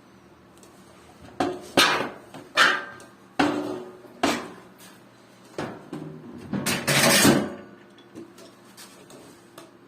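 Irregular clattering knocks of hard objects being handled, about six in a row, then a longer, louder scraping clatter about seven seconds in, over a faint steady hum.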